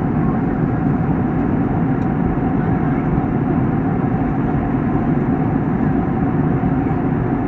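Boeing 737 jet engine noise: a steady, loud drone with one faint high tone held over it.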